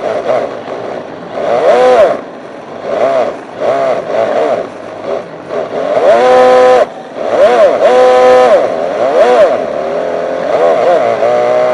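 Synthetic engine sound from a homemade sound unit's speaker on an RC drift car, blipped up and down in pitch again and again like throttle revs, and twice held flat at high revs for about half a second to a second.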